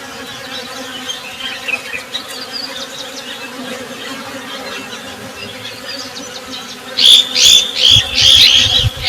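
Honey bees buzzing in a steady hum, with faint bird chirps over it. Near the end comes a much louder run of high, quick chirps for about two seconds, with low rumbling underneath.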